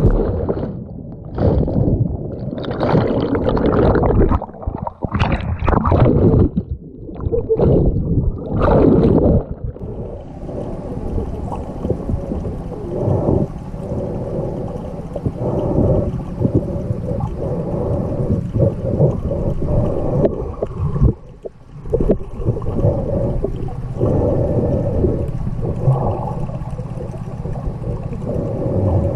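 Muffled water sloshing and gurgling. It comes in uneven loud surges for about the first ten seconds, then settles into a steadier wash.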